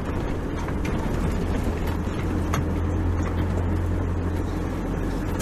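Four-wheel-drive vehicle driving a sand track, its engine and tyres making a steady low drone with a few light knocks and rattles.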